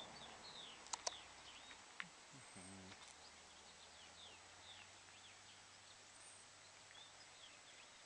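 Faint outdoor ambience of small birds chirping, many short falling calls, with a pair of sharp clicks about a second in and another a second later. The motorcycle engine is not running.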